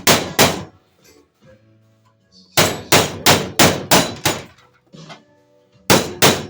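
Hammer blows on a heated sheet-steel floor patch panel being shaped to a curve: sharp, ringing metal strikes about three a second, in runs. The strikes stop briefly just after the start and again about five seconds in.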